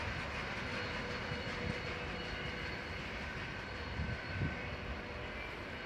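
Freight train of tank cars and wagons rolling away along the track: a steady rumble of wheels on rail, with two heavier knocks about four seconds in.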